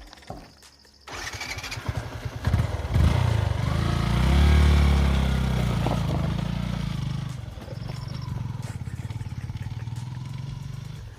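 Motorcycle engine that comes in suddenly about a second in and revs up hard as it pulls uphill over rough ground, peaking a few seconds in, then drops back to a steadier pulsing run.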